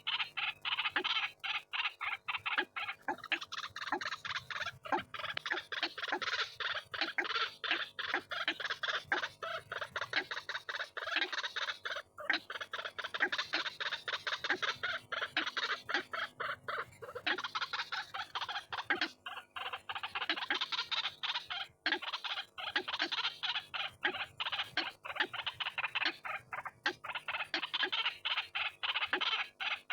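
White-breasted waterhen (ruak-ruak) calling over and over in a fast, unbroken run of notes.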